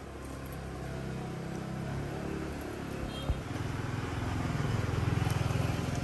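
A motor running with a steady low hum; a sharp click about three seconds in, after which it runs slightly lower and louder.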